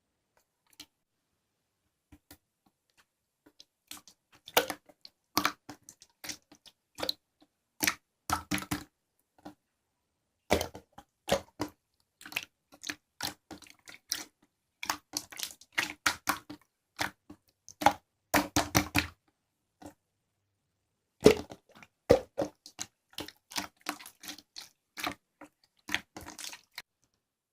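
Slime being squeezed and pressed by hand, giving irregular sharp clicks and wet pops as air pockets burst, with a short pause partway through.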